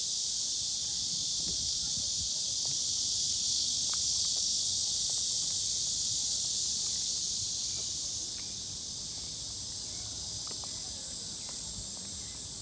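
Steady, high-pitched buzzing drone of a summer insect chorus in the trees, unbroken throughout.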